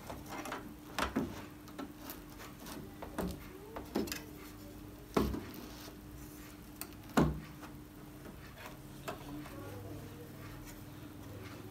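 Handling noises as a TV's LCD panel is set into the plastic frame and its rubber corners: a few sharp knocks, the loudest about five and seven seconds in, among light rubbing and tapping over a faint steady hum.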